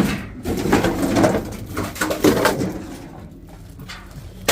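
Scrap metal and cable being handled and sorted: a sharp knock at the start and another near the end, with rattling and rustling in between.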